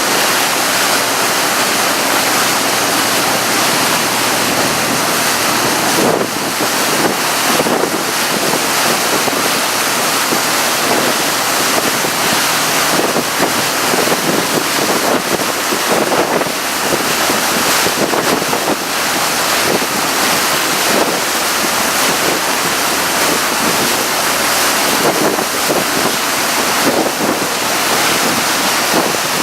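Tour boat under way: wind buffeting the microphone and water rushing past the hull, with a faint low engine drone beneath.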